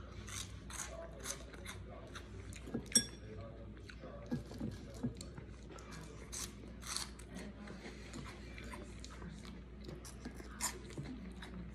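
Crunchy corn-stick snack fries (Flamin' Hot Fries) being bitten and chewed, a run of short crisp crunches throughout. One sharp clink about three seconds in.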